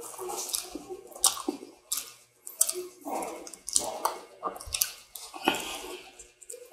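A person chewing and biting fast food (fried chicken and a burger) close to the microphone: irregular wet smacking and mouth clicks.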